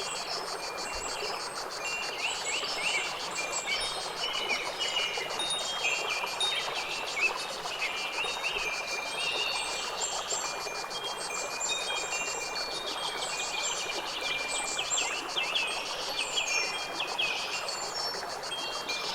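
Nature soundscape of many small birds chirping and twittering, their short calls overlapping constantly, over a steady hiss.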